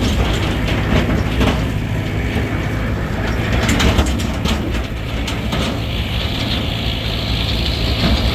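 An engine running steadily with a loud mechanical rattle and clatter over it.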